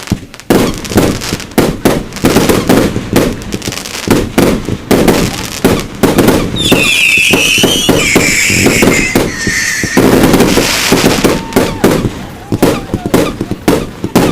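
Fireworks display: rapid bangs of shells bursting, one after another. Around the middle, several high whistling tones fall in pitch over a hiss of crackle for a few seconds.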